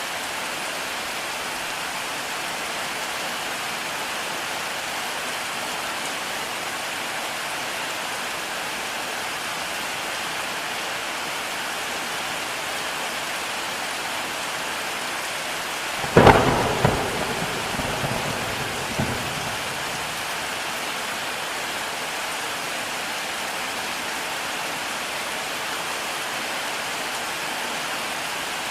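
Steady heavy rain. About sixteen seconds in, one sharp, loud thunderclap cracks and then rumbles for about three seconds before the rain carries on alone.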